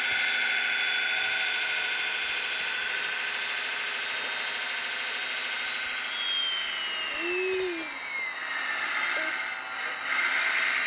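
High-pitched whine of the electric motors and gearing of radio-controlled scale models, made of several steady tones. One tone falls slowly in pitch through the middle and a short low rise-and-fall comes just after it.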